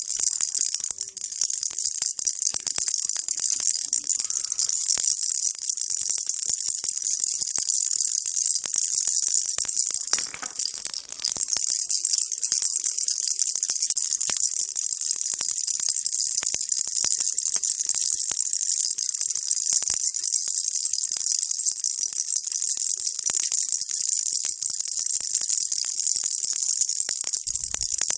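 Baby rattle shaken steadily, a continuous dense rattle that dips briefly about ten seconds in.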